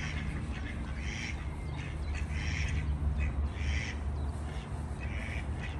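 Harsh bird calls, about five of them roughly a second apart, over a steady low hum.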